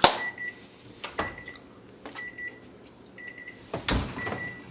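Microwave oven beeping: a short high electronic beep repeating about once a second, with sharp clicks near the start and about four seconds in.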